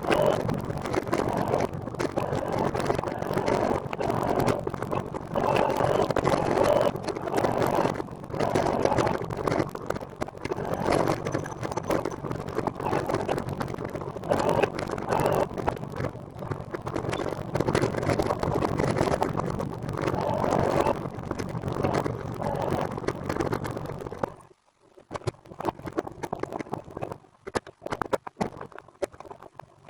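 Wind rushing and buffeting over the microphone, mixed with rolling noise, on a recumbent trike in motion; it falls away abruptly a little over 24 seconds in.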